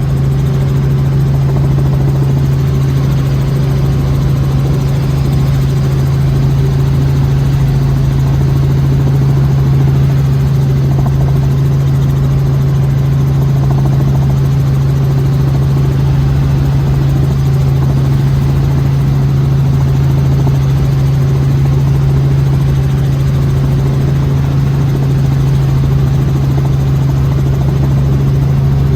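Helicopter running steadily: a loud, constant low drone of engine and rotor that does not change.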